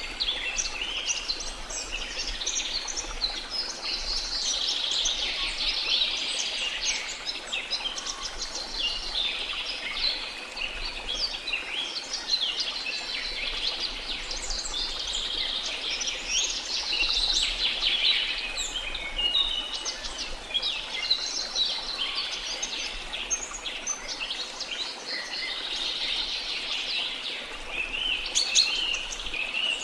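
Dense chorus of many birds chirping and trilling at once, over a steady rush of water.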